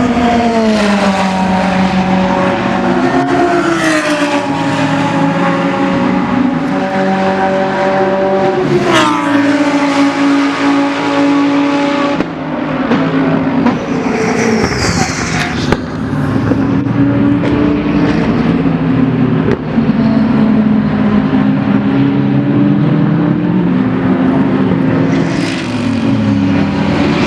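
Several GT3 race car engines running at racing speed past the track, overlapping, their pitch climbing and dropping in steps through gearchanges, with a sharp rev rise about a third of the way in.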